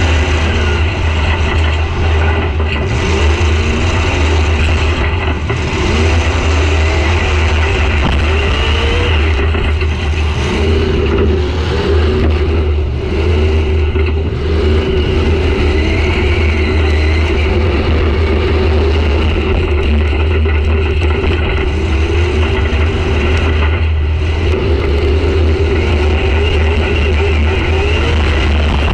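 Demolition derby car's engine heard loud from inside the gutted cab, revving up and down again and again over a heavy steady low rumble.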